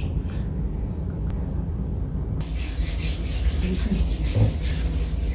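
Hands rubbing a skincare product into the skin, a scratchy rubbing that starts about two and a half seconds in, over a steady low hum.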